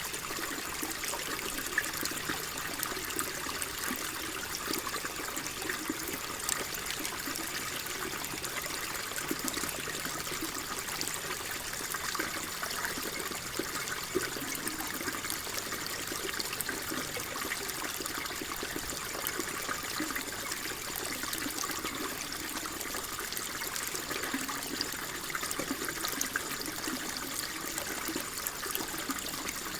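Water flowing and trickling steadily, a continuous running sound dotted with many small splashes and gurgles.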